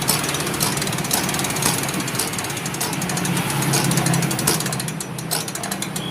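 Small stationary diesel engine running steadily, with sharp mechanical clicks or knocks about twice a second over its hum.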